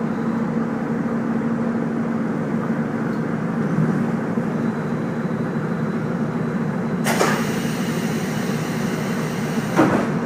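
Steady running noise of a train under way, with a low steady hum. About seven seconds in, a burst of hissing noise starts abruptly, runs for about three seconds and stops sharply near the end.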